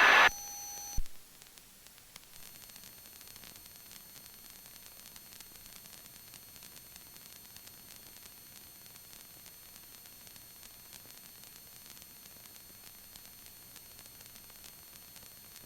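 Faint steady static hiss of a headset intercom and radio audio feed. A radio transmission ends with a click about a second in.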